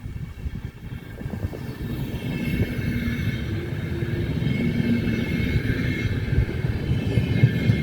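A train drawing near, its low rumble growing louder over the first couple of seconds and then holding steady, with a steady hum over it from about two seconds in.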